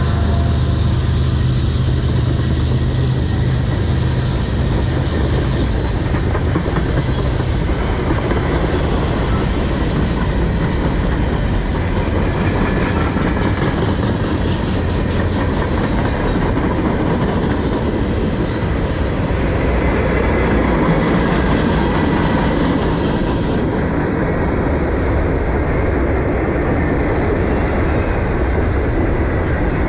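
Loaded freight cars of a mixed manifest train rolling past close by: a loud, steady rumble of steel wheels on rail, with clicking as the wheels cross rail joints.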